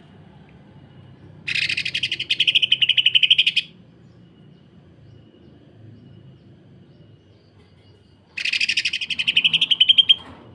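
Cucak ijo (green leafbird) giving two harsh, rapid rattling call bursts, about two seconds each, of fast pulses roughly ten a second: the close-set 'sewing machine' harsh call.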